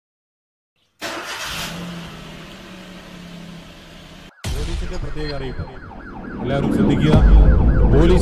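Car engine started with the ignition key about a second in, then running. From about five seconds in a siren wails up and down over it, and the engine rumble grows louder near the end.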